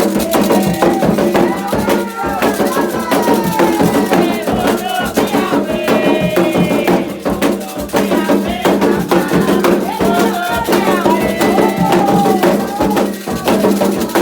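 Afro-Brazilian ritual music: voices singing a chant over a steady rhythm of hand drums, rattles and struck percussion.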